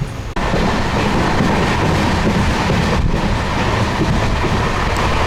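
Passenger train running along the track: a loud, steady rumble and rush of the moving carriage, cutting in abruptly about half a second in.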